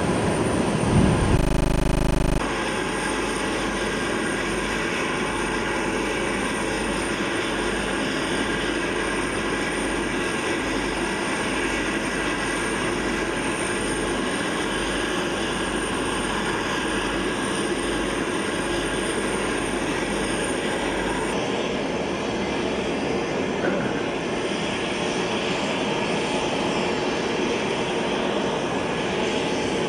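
C-5 Galaxy's turbofan jet engines running steadily: an even rush with a high whine. The high end of the sound drops away abruptly about 21 seconds in.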